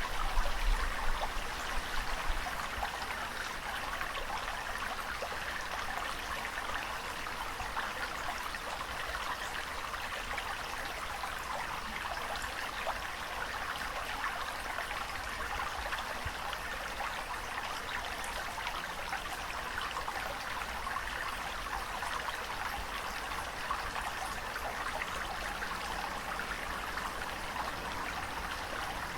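Steady water ambience with an even rushing and trickling sound and no distinct wave surges. A louder low rumble sits under it in the first two seconds.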